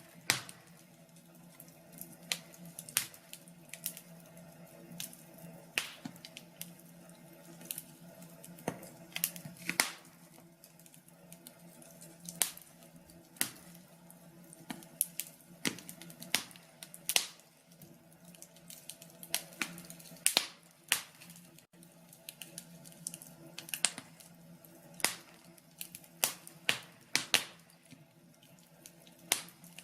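Wood fire crackling, with irregular sharp pops and snaps a few times a second, some much louder than the rest, over a faint steady hum.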